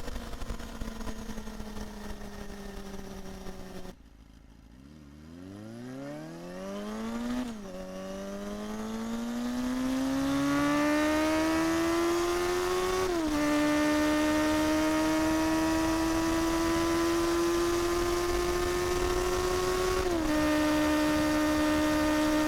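Honda Hornet 250 inline-four engine. Its note falls off for a few seconds and drops away, then it pulls from low revs with a rising exhaust note. It shifts up three times, about a second and a half, six and thirteen seconds later, and the revs climb again after each shift.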